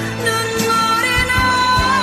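Korean ballad playing: a singing voice with vibrato over band accompaniment, with sustained melody notes and a steady drum beat.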